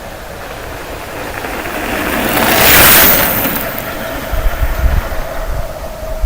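A bicycle speeding downhill past the microphone: the whoosh of tyres and rushing air builds, peaks about three seconds in, then fades away. Gusts of wind buffet the microphone near the end.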